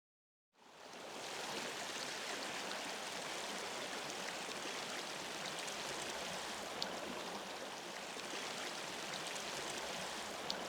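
A small river flowing steadily, a constant rushing of water that fades in about a second in after a brief silence.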